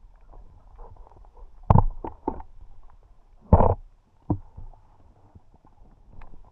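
Underwater sound through an action camera's waterproof housing: a faint, constant crackle of small clicks, with several short muffled gurgling bursts. The two loudest come just under two seconds in and about three and a half seconds in.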